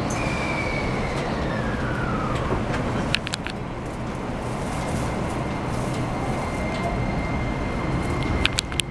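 Keikyu New 1000 series train's Toyo hybrid SiC VVVF inverter whine, heard inside the passenger car over the steady rumble of the running wheels. A high tone glides down in pitch over the first two seconds or so, then a steady high whine holds from about halfway on. Sharp clicks come about three seconds in and again near the end.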